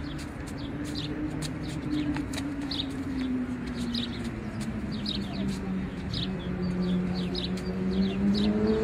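Small birds chirping rapidly and repeatedly over a low steady hum that slowly drops in pitch and then climbs again near the end.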